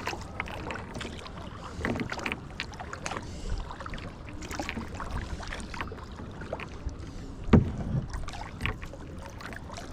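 Kayak paddling: paddle blades dipping and splashing in the water with drips and small knocks against the kayak, and one louder thump about seven and a half seconds in.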